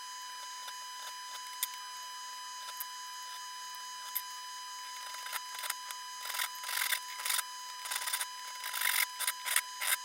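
Short scraping strokes of a hand tool working a workpiece. A few scattered clicks come first, then the strokes start about halfway and quicken to two or three a second near the end, over a steady high whine.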